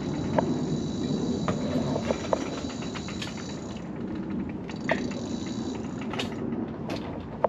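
Mobility scooter rolling along a wooden boardwalk: a steady low rumble from the wheels with scattered clacks as they cross the deck boards. A thin high whine sounds over it through the first half and stops about four seconds in.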